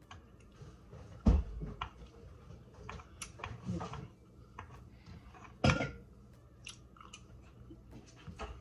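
Close-up chewing and crunching of a mouthful of hard-shell taco, with many small crunchy clicks. Two louder sharp knocks come about a second in and near six seconds in.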